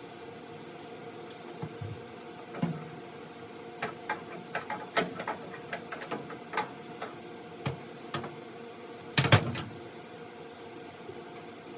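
Metal clicks and knocks of an adjustable wrench working a water heater's hot-water line fitting as it is slowly loosened. A scattered run of sharp taps builds to a louder clatter about nine seconds in, over a steady hum.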